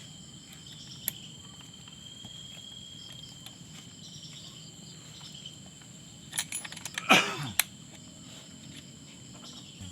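Crickets or other insects chirring steadily as high, continuous tones over a low background hum. A little past the middle come several sharp clicks and one brief, loud sound that drops steeply in pitch.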